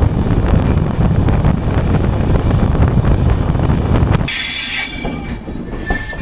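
Suhaildev Superfast Express passenger train running, a loud rumble of wheels on rails heard from aboard. About four seconds in, it gives way abruptly to a quieter sound with thin, high wheel squeals as the train runs slowly.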